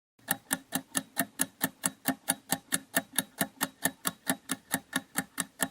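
Clock-style ticking sound effect of a quiz countdown timer: quick, even ticks, about four to five a second.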